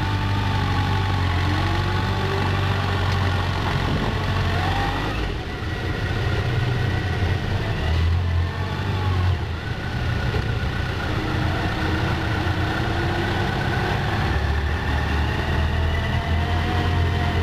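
Yamaha FJR1300's inline-four engine running at low speed, its pitch rising and falling several times as the throttle opens and closes.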